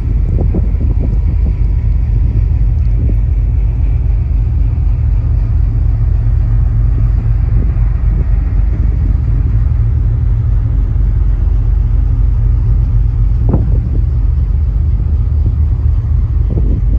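Steady low rumble on a ferry's open deck: wind buffeting the microphone over the ship's running noise. Stronger gusts come about two-thirds of the way through and near the end.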